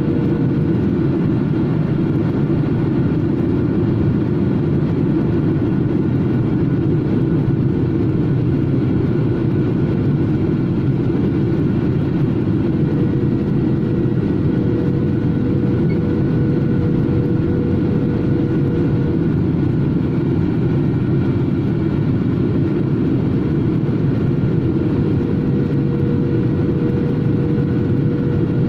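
Airliner cabin noise in flight: the steady rumble of the engines and airflow, with a faint steady hum above it that comes and goes.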